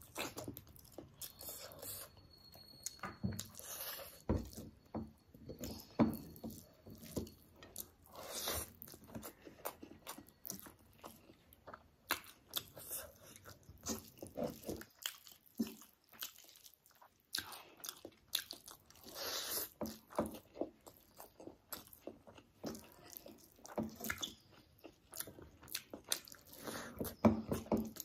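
A person chewing and biting chicken leg curry with rice, with many irregular wet clicks from the mouth and fingers and a short pause about halfway through.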